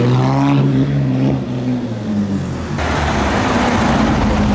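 A car engine revving, its pitch rising and then falling as the car drives past. About three seconds in the sound changes suddenly to a steadier, hissier engine and road noise.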